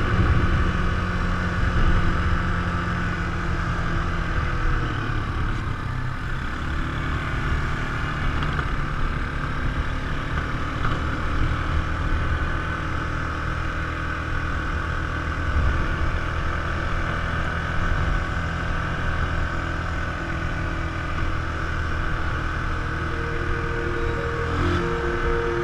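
ATV engine running at a fairly steady speed while riding, with rushing wind and terrain noise over it. Music fades in near the end.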